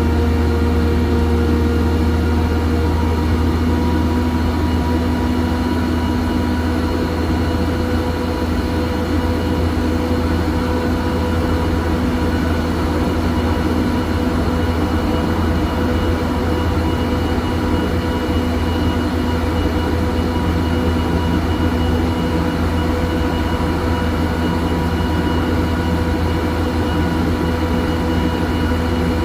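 Heavy diesel engine of a 250-ton hydraulic mobile crane running steadily under load, a constant low drone with a steady hum above it.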